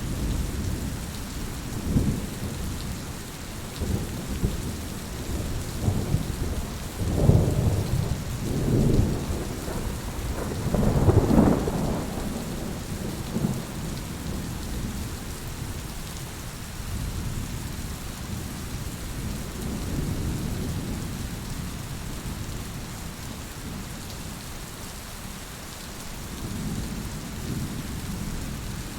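Heavy rain falling steadily, with thunder rumbling low underneath; the rumbles swell several times and are loudest about a third of the way in, then fade back to the rain.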